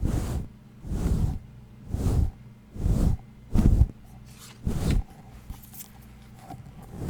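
ASMR rubbing strokes on an unidentified object close to the microphone: six short swishes, about one a second, with quiet gaps between.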